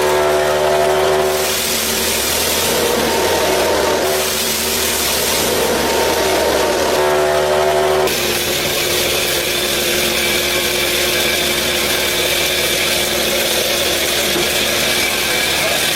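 A small motor or engine running steadily, its tone changing abruptly about eight seconds in.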